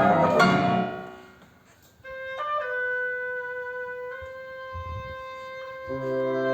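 A chamber woodwind ensemble: a chord dies away into a brief pause, then a single woodwind holds long sustained notes, stepping in pitch a couple of times. Near the end lower woodwind notes join beneath it.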